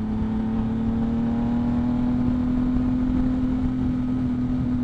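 A 2022 Yamaha MT-09's 890 cc inline three-cylinder engine, breathing through a Two Brothers aftermarket exhaust, pulling steadily under throttle while the bike is ridden. Its pitch rises slowly, over a low wind rumble on the microphone.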